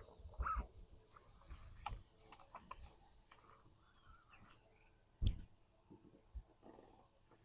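Scattered clicks and knocks of a just-netted catfish and landing net being handled in a boat, with one loud thump a little over five seconds in.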